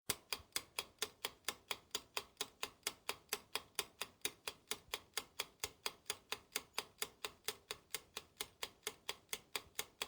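Clock-like ticking sound effect: sharp, even ticks at about four a second that start and cut off abruptly.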